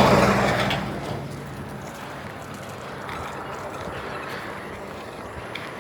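A motor vehicle passing close by: loud engine hum and rushing noise at the start, fading away within about a second, then steady outdoor background noise with a few faint clicks.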